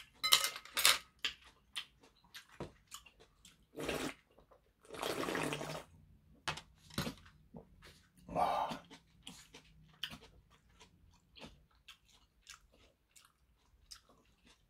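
A person eating, close to the microphone: chewing with wet mouth clicks and smacks. A few louder, longer wet sounds come about four, five and eight seconds in.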